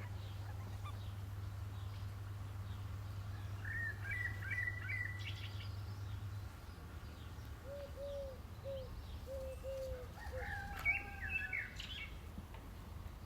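Small birds chirping in two short bouts, with a chicken giving a run of about six short, low calls in between. A low steady hum stops about halfway through.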